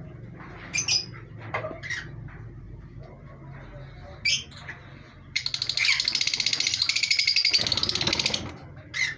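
Pet parrots calling: a few short sharp chirps, then about five seconds in a loud, rapid, harsh chatter lasting about three seconds, and one more chirp near the end.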